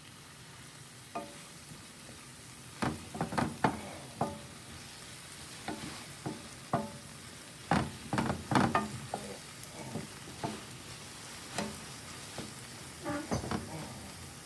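Callaloo sizzling in a pot while being stirred, the utensil knocking and scraping against the pot at irregular moments, most busily around three to four seconds in and again around eight to nine seconds in.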